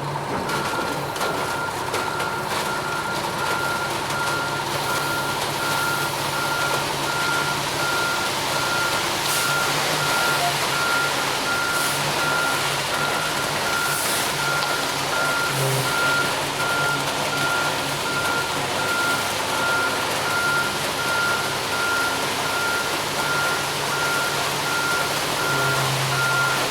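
Ready-mix concrete truck's reversing alarm beeping at a steady even rate over the truck's running diesel engine.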